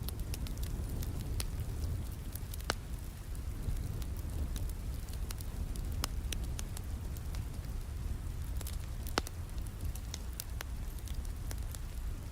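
Wood fire crackling in a fireplace, with sharp pops scattered irregularly throughout and two louder snaps, over a steady low rush of rain.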